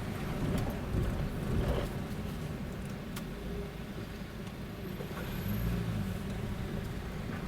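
Car engines running, a steady low rumble with a few sharp clicks and a brief swell in engine sound about five and a half seconds in.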